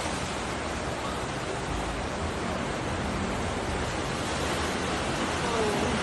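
Steady rushing water noise, the even hiss of heavy rain or fast-flowing floodwater.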